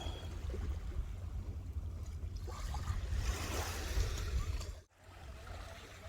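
Surf washing on a sandy shore with wind buffeting the microphone as a low rumble. A wave surges and hisses about three seconds in, then the sound briefly drops out.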